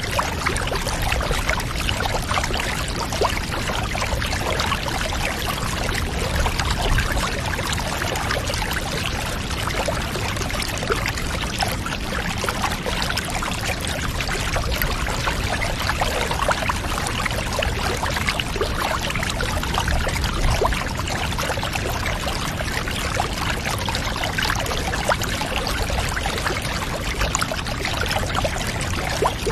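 Water steadily pouring and trickling, over a low rumble and dotted with many small ticks, like a bath filling.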